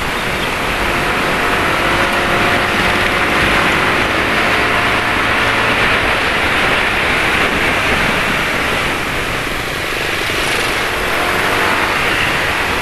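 Motorcycle engines running in road traffic, heard from a moving scooter over steady wind and road noise. Faint engine tones drift slowly up and down in pitch.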